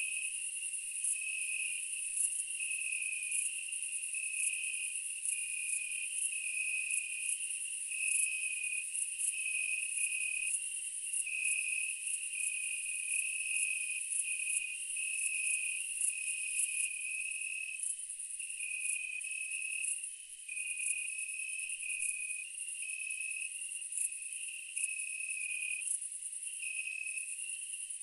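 Insects chirping, crickets or similar: a continuous very high trill over a lower chirp that repeats about once a second, alternating between two close pitches.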